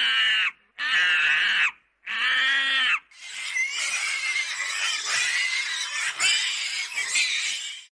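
An animal calling: three drawn-out pitched calls of about a second each, then a longer stretch of rough, noisy squealing that cuts off near the end.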